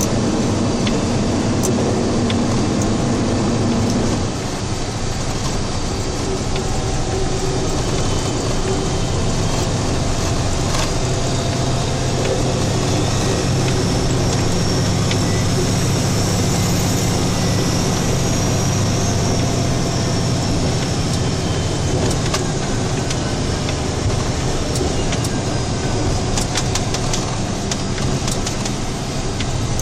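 State snowplow truck driving, heard from inside the cab: a steady engine hum with road noise. The engine note changes and drops slightly about four seconds in, and there are scattered light ticks near the end.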